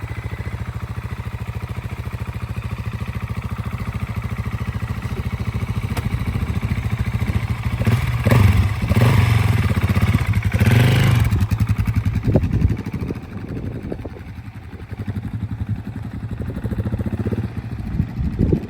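KTM 690 Enduro R's single-cylinder engine idling with a steady pulse, then revved louder for about four seconds from about eight seconds in. About thirteen seconds in, the low engine sound drops away and what follows is fainter and uneven.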